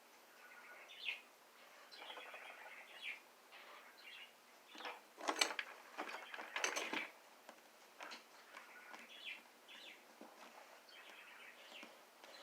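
Faint birds chirping in short scattered calls, with a few brief louder rustling noises about five and seven seconds in.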